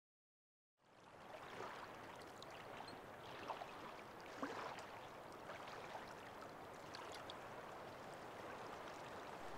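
Shallow water trickling over sand, fading in from silence about a second in, with a few faint clicks.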